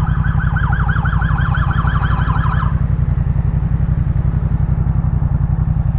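A police siren on a fast yelp, about six rising-and-falling sweeps a second, that cuts off about two and a half seconds in. Under it, the Yamaha MT-07's 689 cc parallel-twin engine runs steadily through its Jeskap K4 full exhaust.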